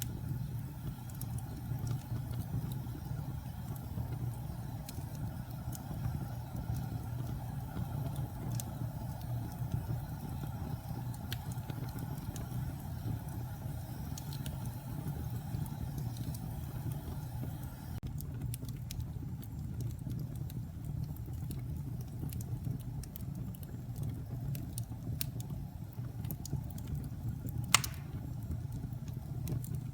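Wood fire burning in a fireplace: a steady low rumble with scattered small crackles, and one sharp, loud pop near the end.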